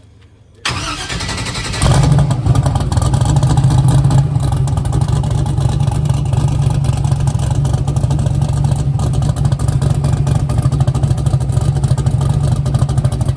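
Fox-body Mustang drag car's engine starting up, its exhaust dumping just ahead of the front wheel. It fires suddenly just under a second in, gets louder about a second later, and settles into a loud, steady idle.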